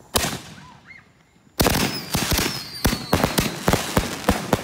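Consumer fireworks going off: one sharp bang right at the start, then, about a second and a half in, a rapid barrage of cracks and pops that keeps going, with a thin falling whistle under it.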